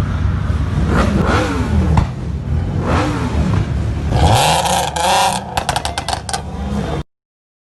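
Car engines running and revving, the engine note sweeping down twice. A loud rush of noise follows, then a quick string of sharp cracks, before the sound cuts off suddenly.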